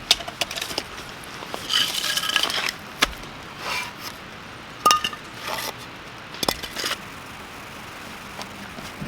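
Metal cookware and utensils clinking and scraping: a run of separate knocks and clinks, some ringing briefly, the loudest about two and five seconds in, dying down near the end.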